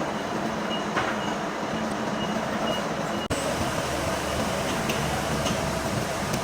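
Steady machine-shop noise from machinery running, with a faint high whine coming and going. It breaks off for an instant about three seconds in.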